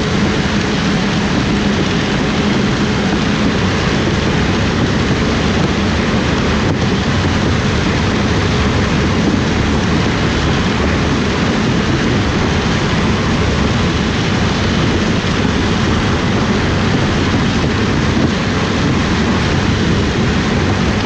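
Combine harvester running steadily at work in corn, a loud constant drone with a low hum underneath.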